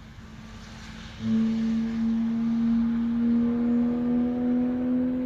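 A racing car's engine droning at steady high revs, starting abruptly about a second in and creeping slightly up in pitch as it holds on.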